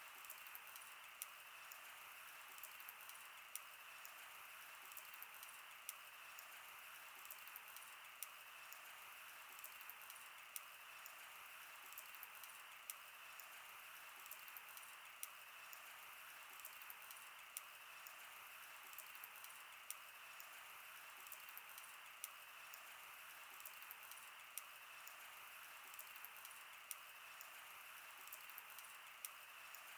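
Campfire crackling: irregular sharp pops and snaps over a soft, steady hiss of burning wood.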